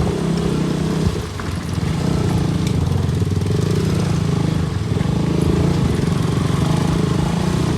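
A KTM RC 200's single-cylinder engine running under way. It dips briefly about a second in, then pulls steadily again.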